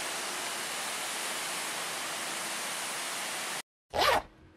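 Steady hiss of heavy rain that cuts off abruptly about three and a half seconds in, followed near the end by a short whoosh sound effect.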